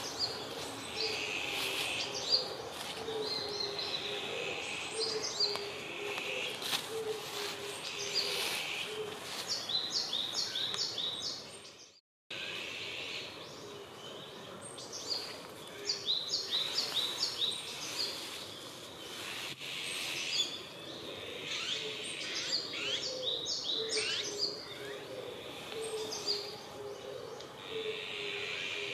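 Several small birds calling and singing in woodland, with quick runs of repeated high notes, over a steady low background din. The sound drops out briefly about twelve seconds in.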